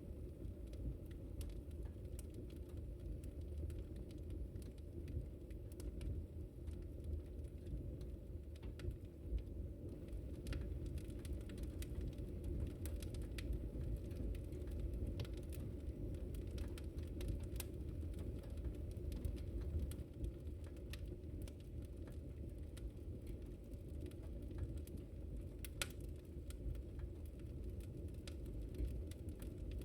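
Wood fire burning: a steady low rumble of flames with scattered sharp crackles and pops, one louder pop near the end.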